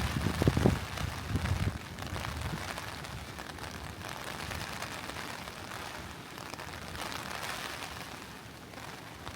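Steady rain falling, from a rain recording mixed over the walk. A low rumbling in the first second and a half settles into an even patter.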